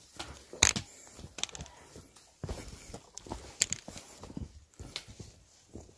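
A hiker's footsteps along a forest trail: uneven steps at a walking pace, a few landing as sharper knocks.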